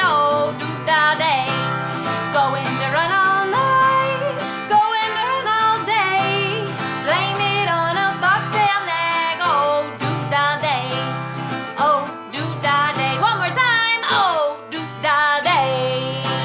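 A voice singing a simple children's singalong melody over a strummed acoustic guitar.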